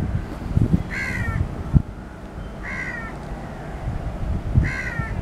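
A bird calls three times, about every two seconds, each call short.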